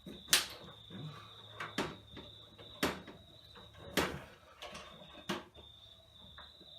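A series of sharp knocks and clunks, about five loud ones spaced roughly a second apart, from table saw parts and packaging being handled and set down while unboxing.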